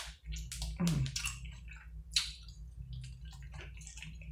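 A person biting and chewing a taco topped with Doritos: scattered crisp crunches and wet mouth sounds, loudest about a second in.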